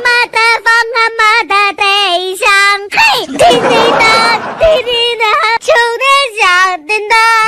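A high-pitched voice singing a quick run of short, wavering notes.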